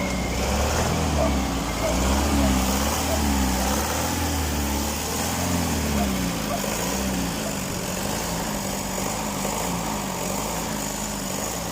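Isuzu 4BC2 four-cylinder diesel engine running, a steady drone with a hum that wavers up and down about once a second. The deep low part of the drone thins out about six seconds in. The running is fairly good.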